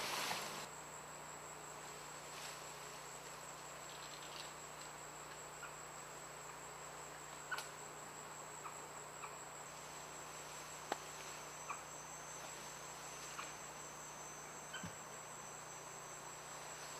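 Rainforest insects trilling steadily at one high pitch, faint, with a few small scattered clicks.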